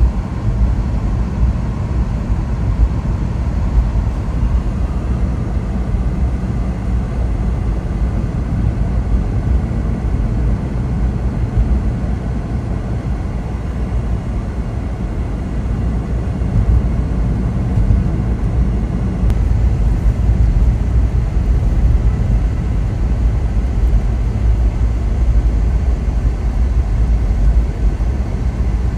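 Steady low rumble of a car being driven, with engine and road noise and no sharp events.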